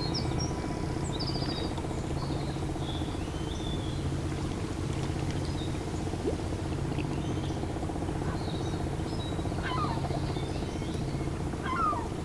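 Outdoor ambience of birds chirping now and then, with a few quick twittering calls near the end, over a steady low hum.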